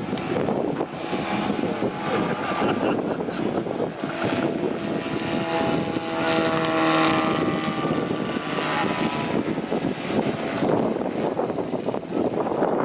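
Large-scale radio-controlled model aircraft flying past, its engine and propeller running steadily, louder as it passes through the middle.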